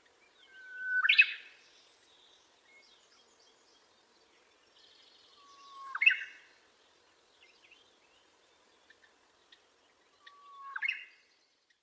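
A bird calling three times, about five seconds apart: each call is a short held whistle that sweeps up into a loud harsh burst. Faint chirps of other birds sound between the calls.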